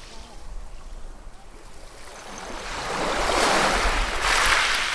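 Sea waves on a shore: a soft wash at first, then a wave swells in about halfway through, breaking and rushing up loudest near the end before it starts to ebb.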